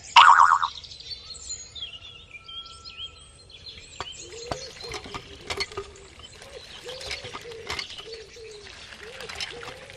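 Small birds chirping and twittering, with a short loud call right at the start. From about four seconds in, a run of light clicks and taps sounds alongside them.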